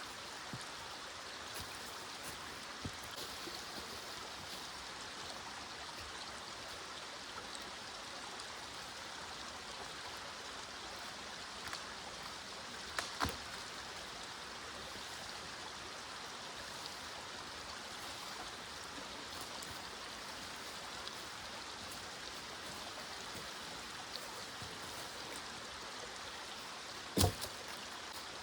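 A small stream running steadily, with two sharp knocks, one about halfway through and a louder one near the end.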